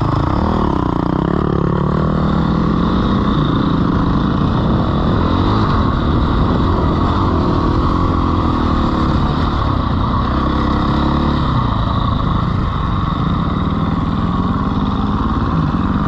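Dirt bike engine running under way, its revs rising and falling repeatedly as the rider works the throttle.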